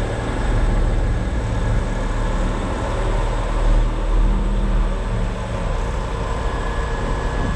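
Concrete mixer truck's diesel engine running steadily at low speed, with a constant low hum.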